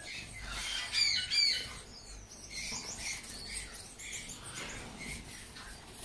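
Small aviary birds calling in short chirps and squawks, with a pair of hooked calls about a second in and scattered chirps after.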